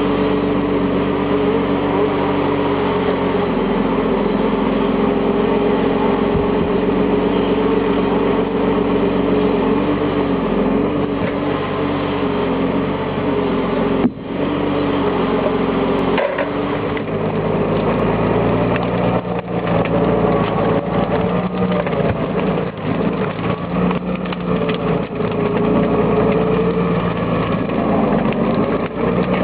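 Valtra T131h tractor's diesel engine running steadily under load while loading logs. About halfway through there is a brief break, after which the engine note settles lower.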